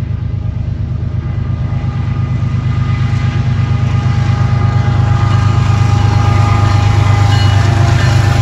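Train passing close by, its deep rumble growing steadily louder.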